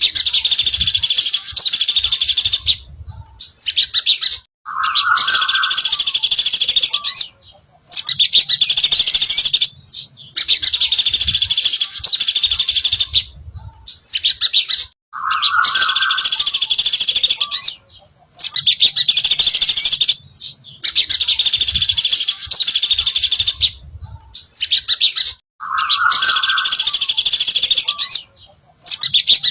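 Sogon dasi trotol songbird singing: rapid, high-pitched chattering phrases of two to three seconds with short breaks between them. About every ten seconds a phrase opens with a short, lower note.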